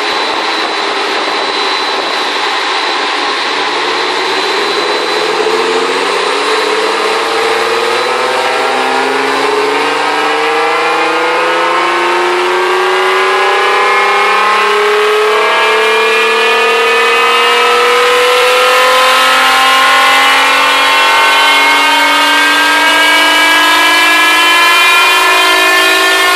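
Nissan GT-R R35's EcuTek Stage 2 tuned twin-turbo 3.8-litre V6 pulling on a chassis dyno, revs climbing slowly and steadily through one long pull and growing gradually louder.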